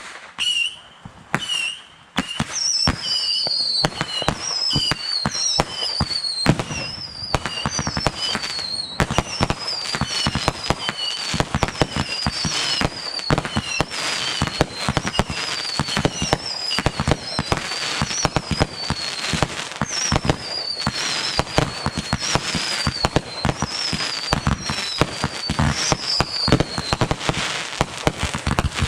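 Fireworks going off: a few bangs with short whistles at first, then, from about two seconds in, a dense, continuous run of sharp bangs and crackles with many short whistles that fall in pitch again and again.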